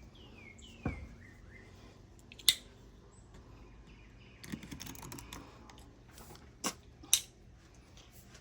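A few sharp clicks and taps from handling the oil bottle and funnel, with a small rattle of clicks in the middle. Birds chirp a few short falling notes near the start.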